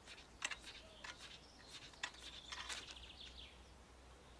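Faint songbird chirps and short calls, several quick notes spread over a few seconds.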